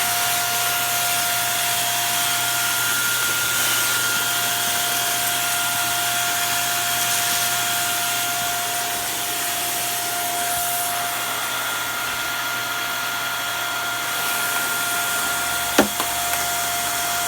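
Shark vacuum cleaner running steadily: a steady rush of air with a constant whine from the motor. A single brief knock comes near the end.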